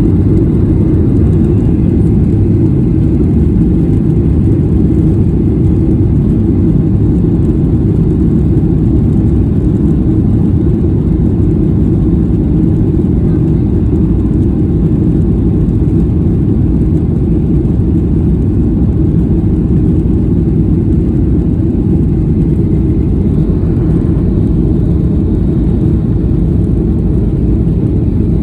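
Airliner cabin noise: the steady, loud, low roar of jet engines and airflow, with no changes throughout.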